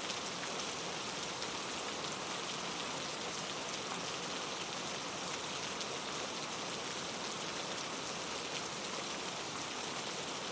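Steady patter of falling precipitation on a surface: many small ticks over an even hiss, with no change throughout.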